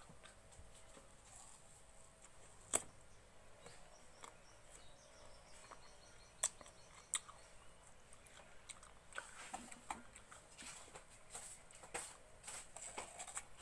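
Close-up eating of crisp fruit: scattered bites and crunchy chewing clicks, a few sharper crunches standing out, bunching closer together in the last few seconds.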